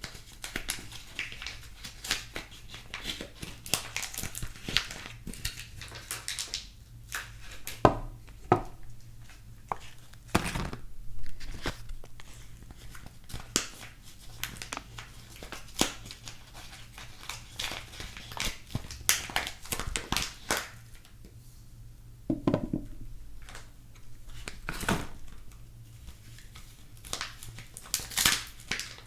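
Soap packaging being handled and unwrapped: irregular crinkling and rustling of wrappers, with some tearing and many small taps and clicks, and a few duller knocks.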